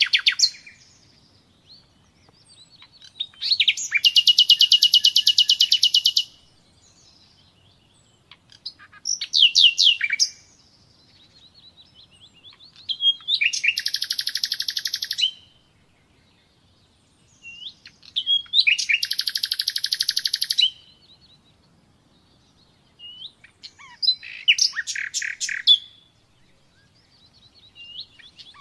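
Common nightingale singing: five phrases of fast repeated notes, each lasting one to three seconds, with short pauses between them.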